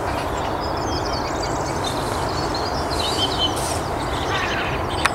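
Birds chirping and trilling in short high phrases over a steady low background rumble.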